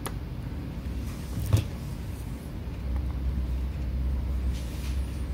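A low rumble that swells from about three seconds in, with a faint click at the start and a sharper click with a dull thump about a second and a half in.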